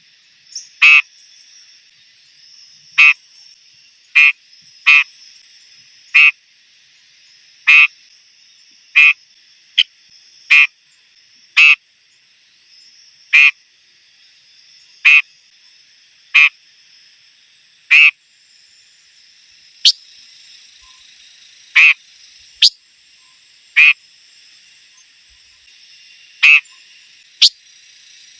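A bird known in Vietnamese as chim ngũ sắc ('five-coloured bird') repeating a short, harsh call every one to two seconds at uneven spacing, over a faint steady hiss.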